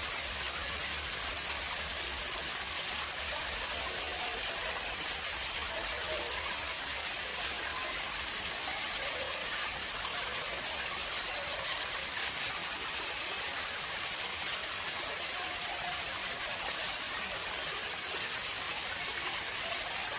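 Water flowing steadily into a man-made pond, an even rushing splash with no breaks.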